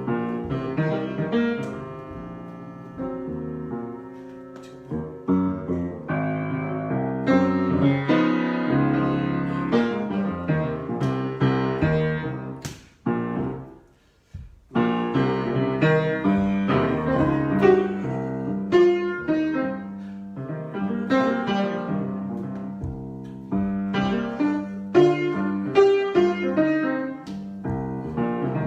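Solo piano being improvised, with chords and melodic runs. About halfway through the playing fades out and stops for a second or so, then starts up again.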